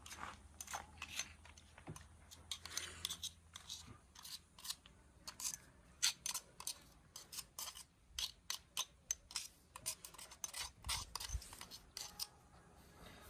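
Chicken marinade with freshly crushed green chilli being mixed in a vessel: a quick, irregular run of scraping and rubbing strokes.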